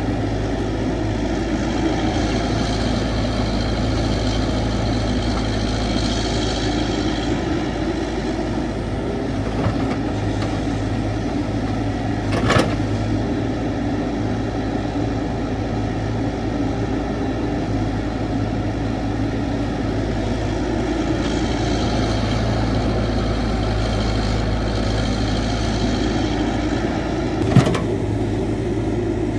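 Caterpillar 312 excavator's diesel engine running steadily while digging, with a higher whine coming and going twice. Two sharp knocks ring out, one about midway and one near the end.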